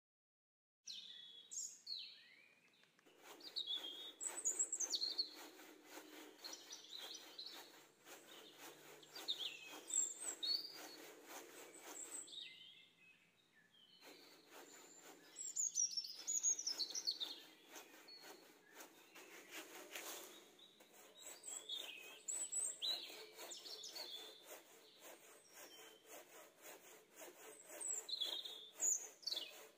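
Birds chirping and calling: many short rising and falling notes scattered throughout, over a steady faint background hiss, starting after about a second of silence.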